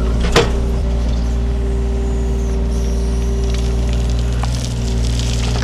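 Takeuchi TB230 mini excavator's diesel engine running steadily under hydraulic load with a held hydraulic tone, and one sharp crack about half a second in as the bucket pushes down.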